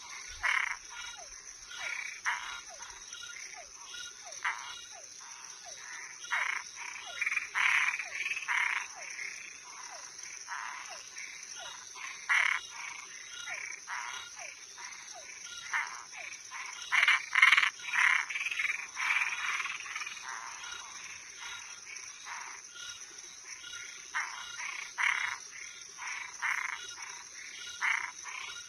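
Night chorus of frogs and treefrogs at a pond, calling in short repeated croaks, sometimes several in quick succession, with the loudest run about two thirds of the way through. A steady high-pitched insect trill runs underneath.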